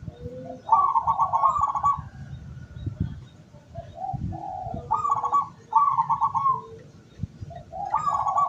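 Zebra dove (perkutut) cooing: three phrases of its song, each a couple of short lead-in notes running into a fast, rattling trill of coos, the last one starting near the end.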